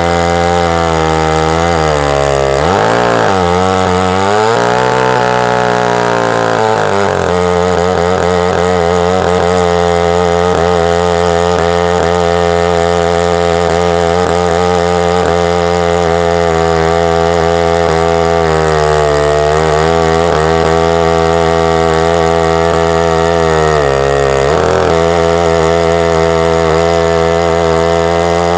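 Husqvarna 2100CD two-stroke chainsaw running at full speed through a chainsaw-mill cut. Its engine note sags and recovers under load a few times: in the first several seconds, and twice more near the end.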